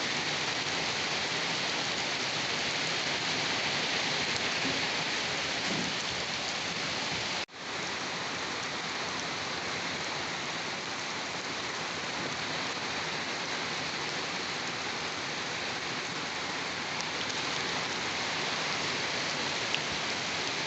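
Steady heavy rain, a dense even hiss of drops, with a momentary break in the sound about seven and a half seconds in.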